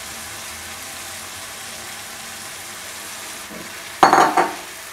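Yogurt-marinated chicken sizzling in hot oil and tomato purée in a wok, a steady hiss. About four seconds in, a spatula stirs it with a couple of loud, short stirring sounds.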